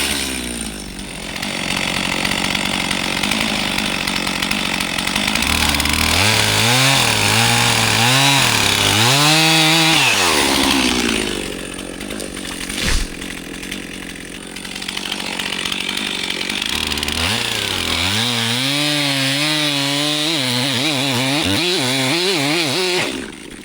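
Chainsaw cutting timber, its engine revving up and down with the throttle. It drops to a lower level for a few seconds in the middle, with a sharp knock, then revs again and cuts off suddenly near the end.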